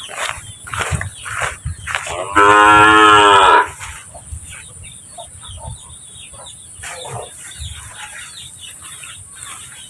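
A cow moos once, a loud call of a little over a second, about two and a half seconds in. Scattered rustling and crackling runs through the rest.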